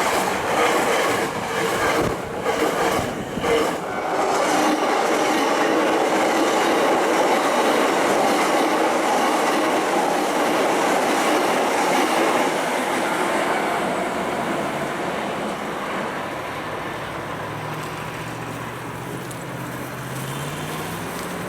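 Hankyu Kyoto Line electric train passing, its wheels clicking over the rail joints, the running noise steady and then fading after about 13 seconds. A low rising hum comes in near the end.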